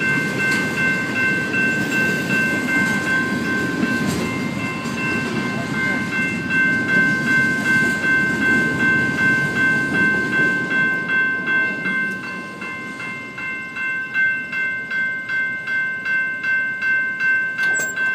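A long train rolling past, its cars rumbling, over a steady high ringing tone. About two-thirds of the way in the rumble dies down, and a regular clacking about twice a second is left with the ringing.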